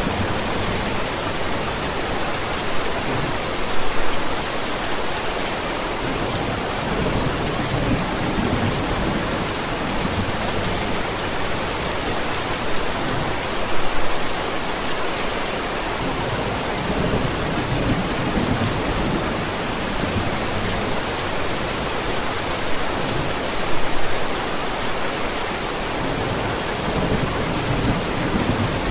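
Steady heavy rain with low rumbles of thunder, swelling louder about every ten seconds.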